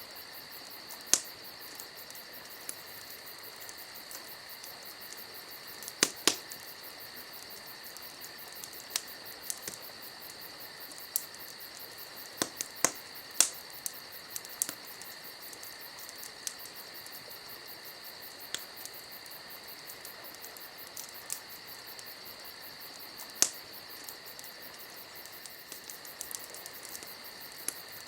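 Crickets trilling steadily and high-pitched, with scattered sharp pops and crackles from a wood campfire, a few of them louder.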